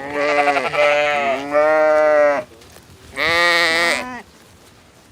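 Sheep bleating: three loud, wavering bleats, the last about three seconds in.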